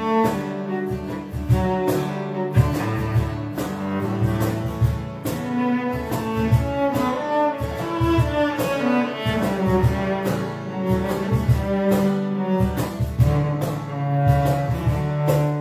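Instrumental passage of a country song played by a band: melodic lead notes over a steady rhythm with regular sharp beats.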